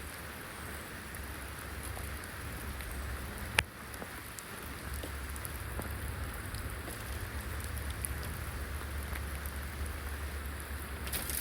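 Steady rain falling, with scattered drops ticking and one sharp tap about three and a half seconds in.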